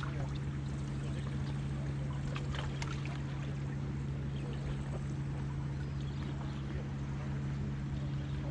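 A boat's engine running steadily, a constant low drone. A few faint clicks sound about two and a half seconds in.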